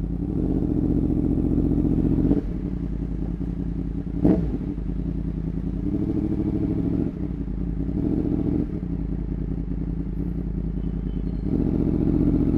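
Sport motorcycle with a Graves aftermarket exhaust running, its engine note stepping up and down with the throttle. There is one sharp exhaust pop about four seconds in.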